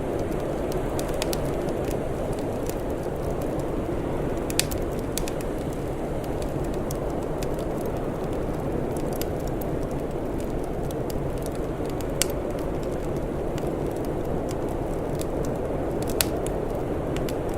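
Wood fire crackling, with frequent small snaps and three louder pops, over a steady low rushing noise.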